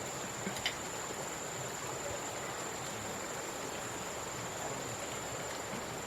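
Steady outdoor background with a constant high-pitched insect drone, and two faint clicks about half a second in.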